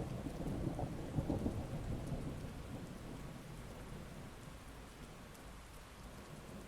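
Thunder rumbling with some crackle in the first couple of seconds, then fading away over a steady hiss of heavy rain.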